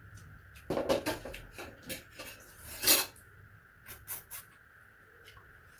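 Close-miked eating of rice and meat: a string of short mouth and chewing noises with food and plate handling, the loudest about a second in and about three seconds in.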